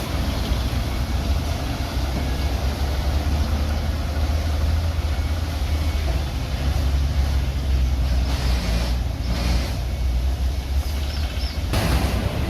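Heavy diesel engine of earthmoving machinery running steadily with a low rumble, with clattering mechanical noise over it.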